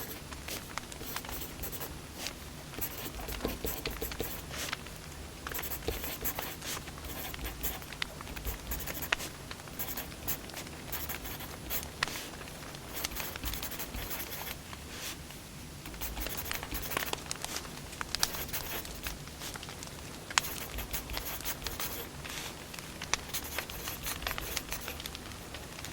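Wood fire burning, crackling steadily with many sharp pops.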